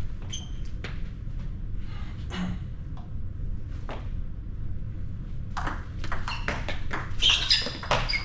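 Table tennis ball clicking sharply off bats and table during a rally, scattered at first, then a quicker run of hits with high squeaks in the last few seconds.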